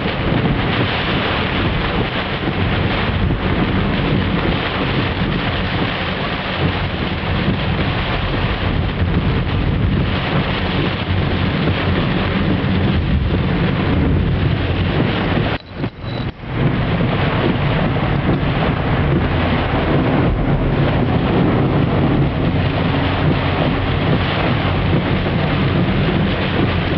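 Tropical storm wind and rain, a loud steady rush with wind buffeting the microphone. It cuts out briefly for about a second a little past the middle.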